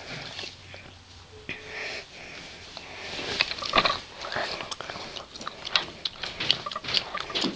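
Dog sniffing and snuffling close up, with irregular short clicks and scuffs that come thicker from about three seconds in.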